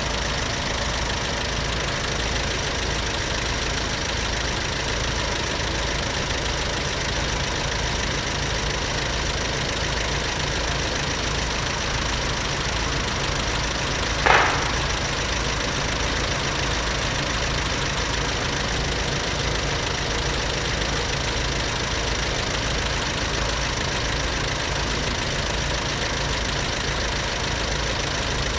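Vehicle engine idling steadily with an even low pulsing, and one brief sharp sound about halfway through.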